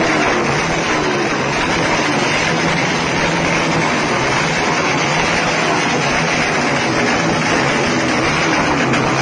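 Motorcycle engine running loud and steady through its exhaust in an exhaust test: a harsh, even rasp with a low engine tone underneath.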